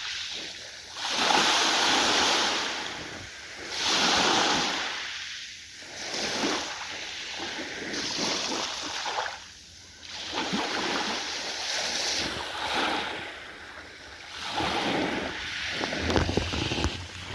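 Ocean waves washing in, the surf swelling and falling away in repeated surges every two to three seconds.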